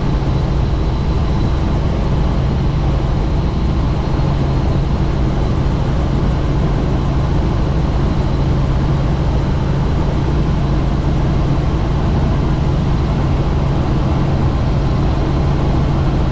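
Helicopter in flight with the doors off: a steady loud drone of rotor and engine over rushing wind noise, with a faint steady high whine.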